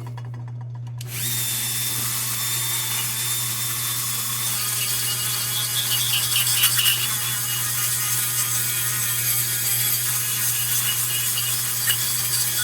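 A small power tool running a 180-grit abrasive over the rusty tin of an old lantern, a steady sanding whir with a faint high whine that starts about a second in. It is stripping rust and oxidation down to bare tin. A low steady hum runs underneath.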